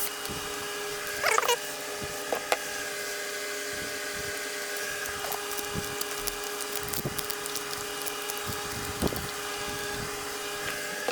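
HVAC tape being handled and pressed down to seal a cable hole: scattered small taps and crackles over a steady hum with several tones.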